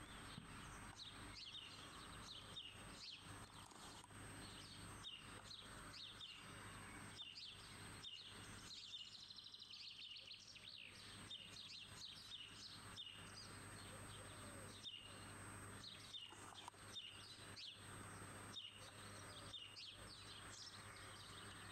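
Faint birdsong: many short, repeated chirps and calls over a steady low hum.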